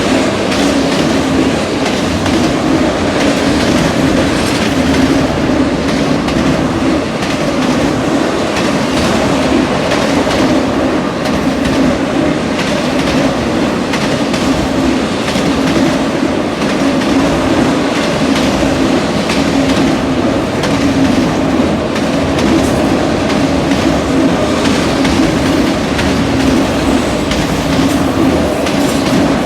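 CPKC autorack freight cars rolling past at close range: a steady, loud rumble of wheels on rail with a constant stream of clicks from the wheels over the rail joints. Gusty wind buffets the microphone underneath.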